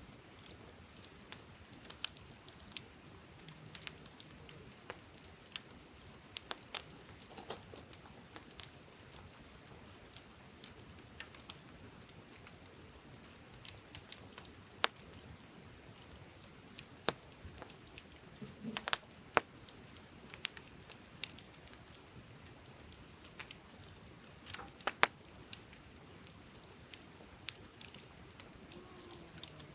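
Wood campfire crackling: irregular sharp pops and snaps, a few louder ones about nineteen and twenty-five seconds in, over a faint steady hiss.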